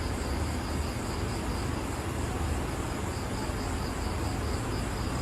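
Insects chirping in a high, fast pulsing tone, about three pulses a second, over a steady outdoor background hiss and low rumble.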